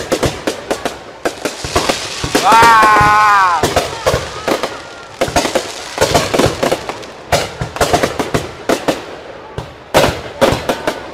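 Fireworks display: aerial shells bursting in a rapid, uneven run of sharp bangs and crackles. About two and a half seconds in, a loud tone lasting just over a second falls slowly in pitch over the bangs.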